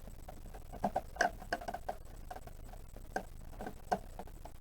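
Light, irregular clicks and taps of small plastic parts being handled as switches are worked out of a portable fridge's control panel. The clicks are loosest between about one and four seconds in.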